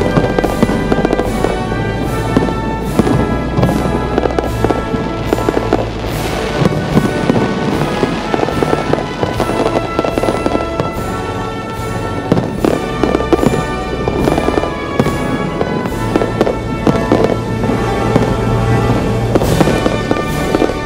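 Aerial fireworks bursting and crackling in quick succession, with music playing along throughout.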